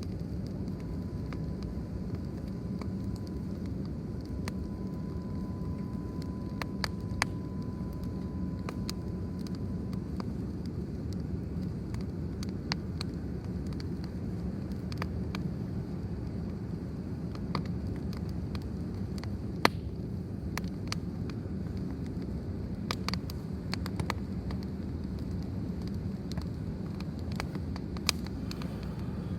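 Wood fire burning in a fire stand: a steady low rumble with scattered, irregular sharp crackles and pops, the loudest pop about two-thirds of the way through. A faint thin steady tone holds through the first third.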